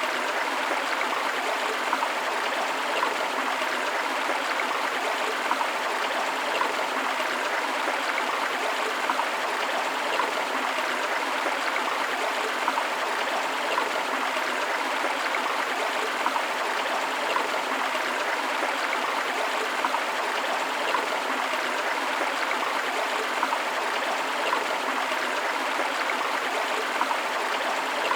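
Steady rushing and splashing of a forest river or stream, an even wash of water noise.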